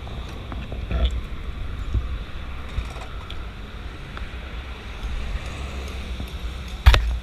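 Steady low rumble with wind noise on the microphone, as from a Triumph 675 motorcycle on the move. A loud knock comes near the end.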